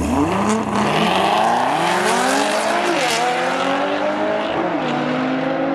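Cadillac CTS-V and Nissan GT-R launching and accelerating down the drag strip. The engines climb steadily in pitch, drop briefly at a gear change about three seconds in, climb again, and shift once more near the five-second mark.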